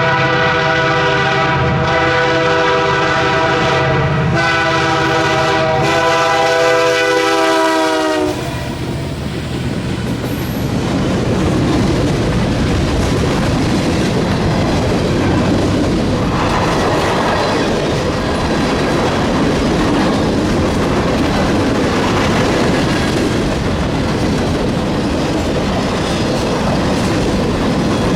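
A diesel locomotive's multi-chime air horn sounds a chord over its engine rumble, with a short break about four seconds in. The horn's pitch dips as it passes at about eight seconds and then stops. The train's cars follow, rolling past with a steady clatter of wheels over the rails.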